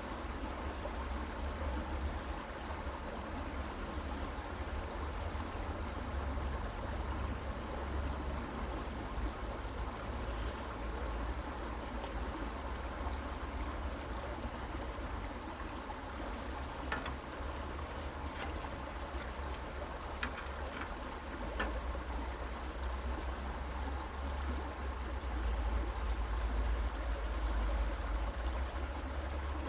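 Creek water flowing steadily, with a low rumble underneath and a few faint clicks about halfway through.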